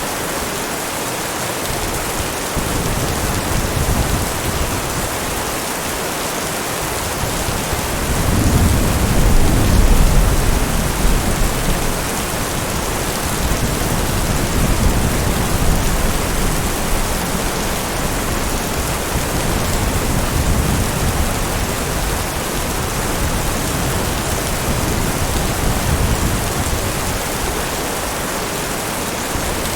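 Steady heavy rain falling, with a low rumble of thunder swelling about eight seconds in and fading a few seconds later.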